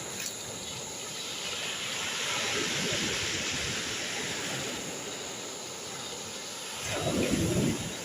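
Steady rush of water from a river mouth that has burst through to the sea after heavy rain, swelling a little a few seconds in. A louder rumble lasting under a second near the end.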